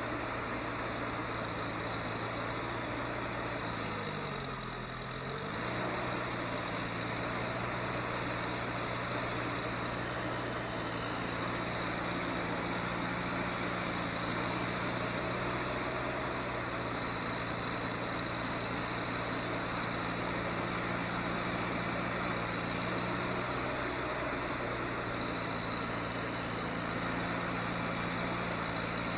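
A heavy vehicle's engine running steadily, its revs dropping sharply and climbing back about four to five seconds in.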